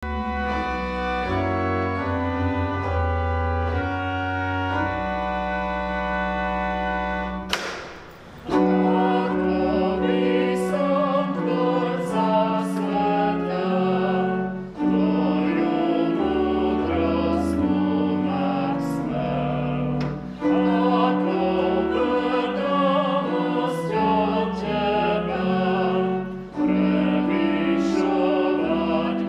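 Church organ playing a hymn introduction in steady held chords over a deep pedal bass. After a short break about eight seconds in, voices sing the hymn tune with the organ accompanying.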